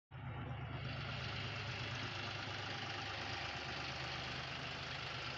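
John Deere 5036D tractor's three-cylinder diesel engine running steadily at low revs; the sound cuts in abruptly just after the start.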